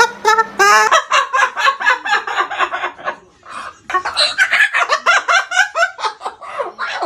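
White cockatoo making a rapid run of short, chicken-like clucking calls, several a second, with a brief lull about three seconds in.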